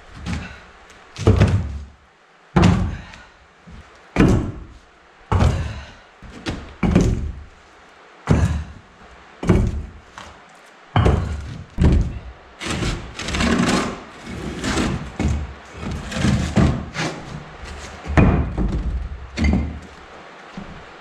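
Firebricks being set down one after another during a dry-fit of a fireplace firebox: a series of heavy clunks, roughly one a second and closer together around the middle.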